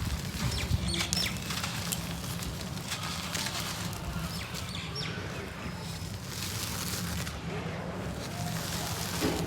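Gritty cement crumbling and sifting: an irregular crackly patter of many small grains and clumps falling and breaking.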